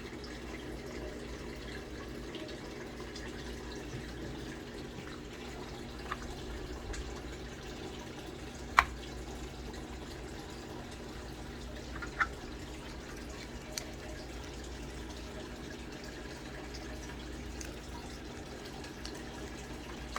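A steady low hum with a few scattered sharp clicks, the loudest about nine seconds in.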